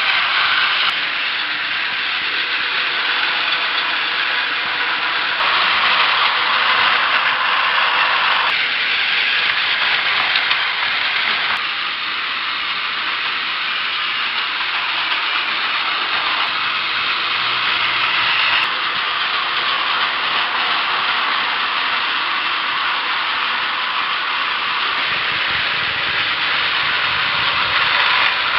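Battery-powered Plarail toy trains running on plastic track, their small electric motors and gearboxes giving a steady high whir, with the sound changing abruptly every few seconds.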